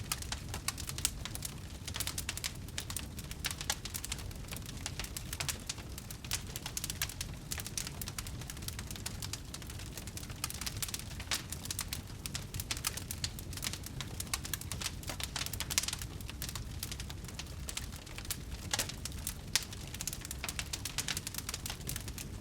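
Campfire burning, wood crackling with many irregular sharp pops over a low steady rumble of the flames.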